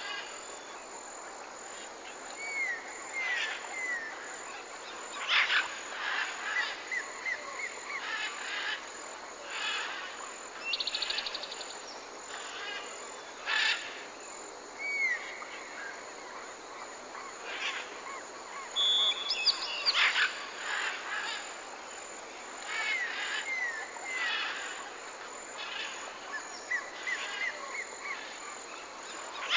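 Several forest birds calling: short curved whistled notes, quick trilled runs and sharp clear calls, repeating in bouts, over a steady high-pitched hum.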